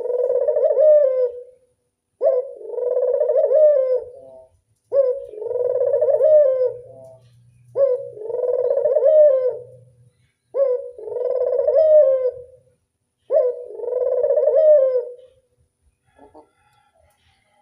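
Local puter dove (domestic Barbary/ring-necked dove) giving its classic cooing song: six rolling coos, each about two seconds long and opening with a sharp rising note, repeated about every three seconds, falling silent near the end.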